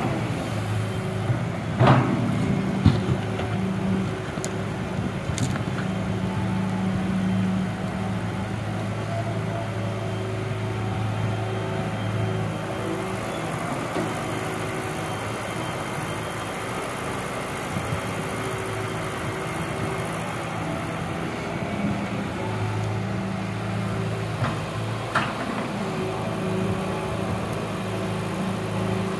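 Excavator diesel engine running steadily, its note growing louder twice, with a few sharp knocks near the start and once near the end.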